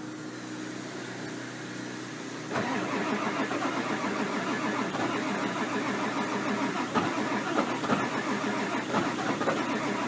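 A 7.3L Powerstroke V8 diesel being cranked over by its starter, starting about two and a half seconds in, with uneven pulses as it turns but does not catch. It is a cold start at about 9 °F with the glow plugs not working because of a bad glow plug relay, so the engine wants to fire but won't start.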